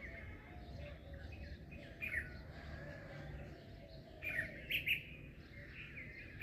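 Several songbirds chirping and calling over one another, with sharper, louder chirps about two seconds in and again around four to five seconds in, over a low background rumble.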